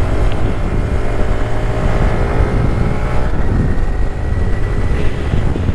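Honda Grom's single-cylinder engine running steadily at riding speed, heard under heavy wind rumble on the microphone.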